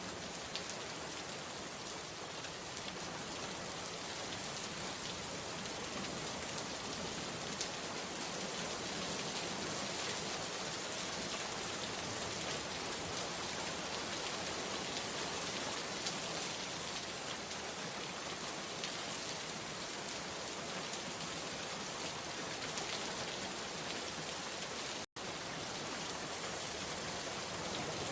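Steady rain falling, an even hiss with scattered faint drop ticks. It cuts out for an instant near the end.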